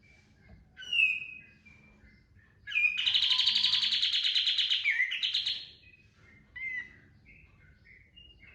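Kapas tembak bulbul singing: scattered short whistled notes and a loud falling note, then a loud, fast rattling trill lasting about three seconds, the rapid "tembakan" burst that birdkeepers prize, followed by a few more short notes.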